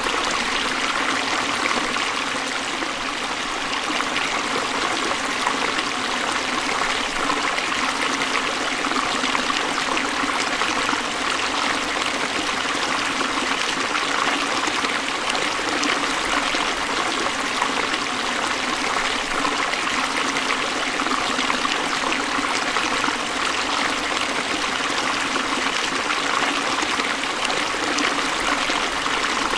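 Forest stream flowing over rocks, a steady rush of water with trickling and burbling.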